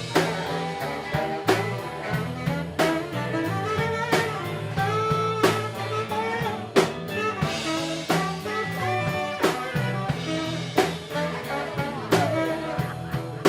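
A live band playing music with drum kit and guitar, with a strong drum hit about every second and a third.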